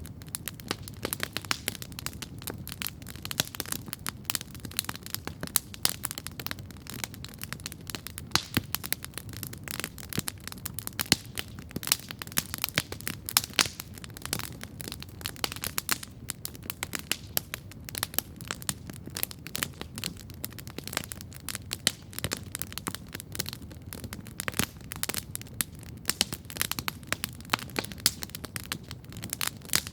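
Wood campfire crackling steadily, with dense irregular pops and snaps over a low steady rumble.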